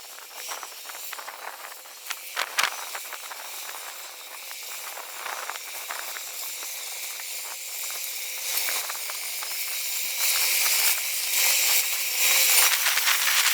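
McCormick-Deering No. 50-AW hay baler running, its International Harvester Cub four-cylinder engine going with a steady clatter of rattling and clicking from the baler's works. It grows louder toward the end.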